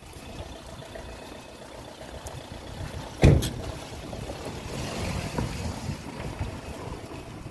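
Wind rumbling and buffeting on the microphone, with one sharp knock a little over three seconds in.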